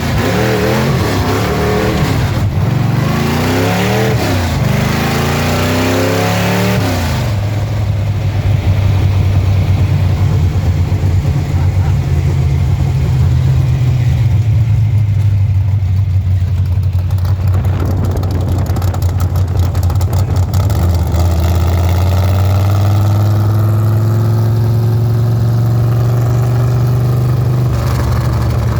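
Engine of a 1928 Ford rat rod revved up and down several times over the first seven seconds or so, then settling into a steady idle.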